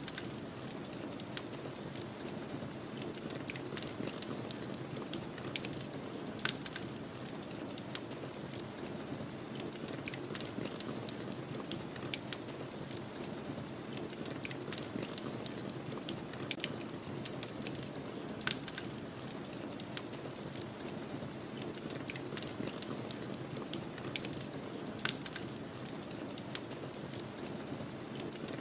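Wood fire crackling with irregular sharp pops, several a second, over a steady low rush of snowstorm wind.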